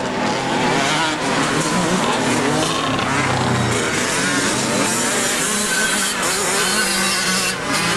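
Several motocross bikes running together, their engines revving up and down continuously as they ride.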